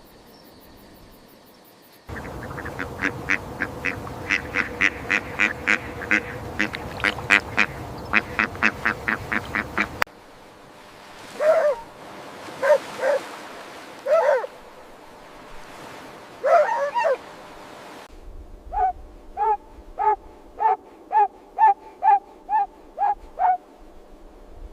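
Ducks quacking, in three short recordings one after another: a fast run of quacks about three a second, then a few scattered calls, then an even series of about two quacks a second.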